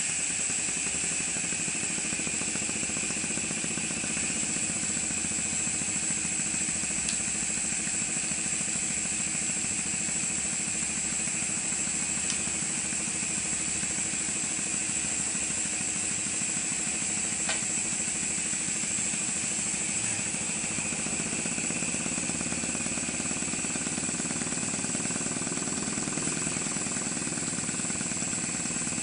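Maxwell Hemmens model colliery steam engine running steadily on compressed air, with a constant hiss of air and the rapid beat of the engine. About three-quarters of the way through, its low running sound grows stronger.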